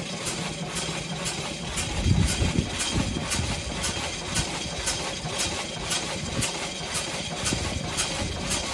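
1901 Curved Dash Oldsmobile's single-cylinder engine idling, freshly started after sitting for years, with a slow, even beat of a few firing pulses a second. About two seconds in, a few heavier low pulses stand out.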